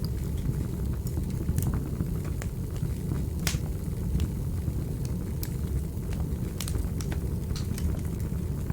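Wood fire burning with a steady low rumble and scattered sharp crackles and pops, one louder pop about three and a half seconds in.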